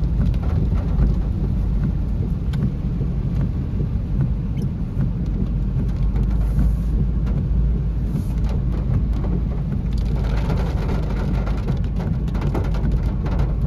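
Rain hitting a Tata Tiago car, heard from inside the cabin over a steady low rumble of the moving car. The raindrops sound as many small ticks, which thicken about ten seconds in.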